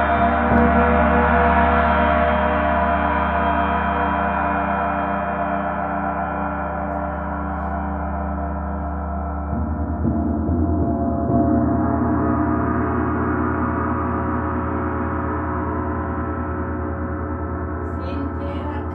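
A gong ringing in a long, shimmering wash of many overlapping tones, swelling again with a fresh stroke about halfway through before slowly dying away.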